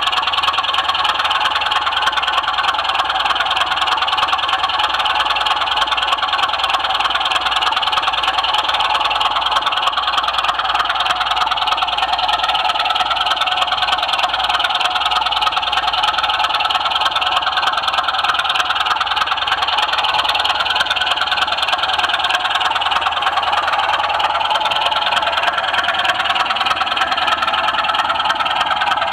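OO-gauge model train running continuously on track, a steady rolling and rattling noise from wheels on rails and the locomotive's motor.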